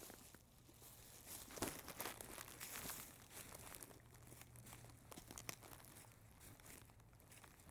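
Faint crinkling and rustling of a plastic trash bag, with scattered sharper crackles, a little louder in the first few seconds.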